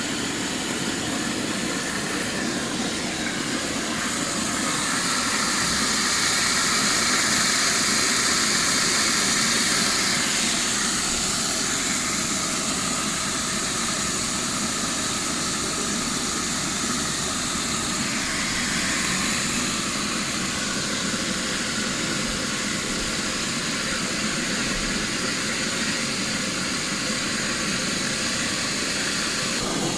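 Steady hiss of water spraying from a leaking water pipe, swelling a little about a quarter of the way in.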